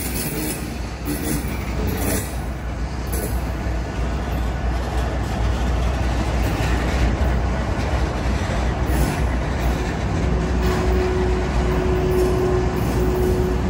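Freight train's tank cars and flatcars rolling slowly past at close range: a steady rumble of steel wheels on the rails. A steady mid-pitched tone joins about ten seconds in.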